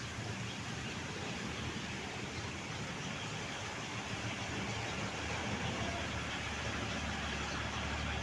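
Steady engine noise with a low hum, growing a little louder toward the end.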